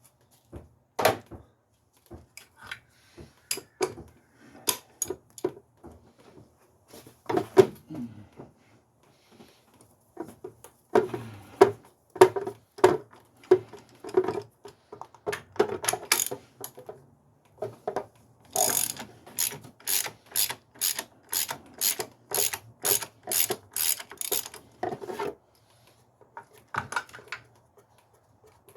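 Socket ratchet wrench clicking as a 19 mm bolt is worked loose on a car's motor mount. It comes in irregular strokes at first, then a steady run of about two strokes a second from about two-thirds of the way in.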